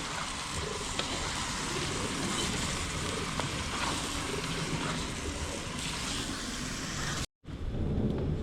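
Food sizzling steadily in hot oil in a cooking pot, with a few faint crackles. It cuts off suddenly about seven seconds in, and gusty wind rumbling on the microphone follows.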